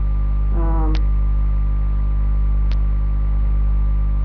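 Loud, steady electrical mains hum with its overtones, picked up on the recording. A short vocal sound comes about half a second in, and there are a couple of faint clicks.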